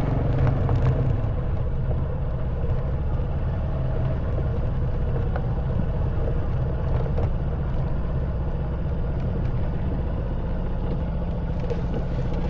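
Honda Wave 110cc single-cylinder four-stroke motorcycle engine running at a steady, even speed under a low rumble, with a few scattered light knocks.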